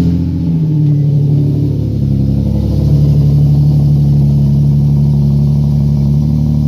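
Infiniti G37's 3.7-litre V6 idling loudly through a full single-exit aftermarket exhaust, just after start-up; the idle settles a little lower about two and a half seconds in.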